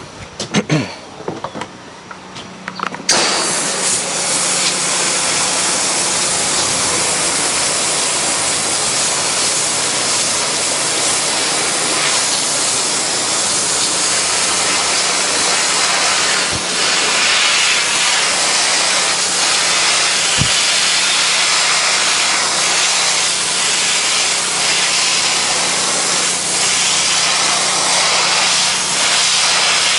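Pressure washer spraying water at low pressure, a loud steady hiss that starts suddenly about three seconds in, over the washer's steady engine and pump hum.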